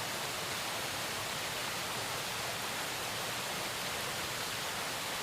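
Steady, even rushing noise of a waterfall, with no change in level.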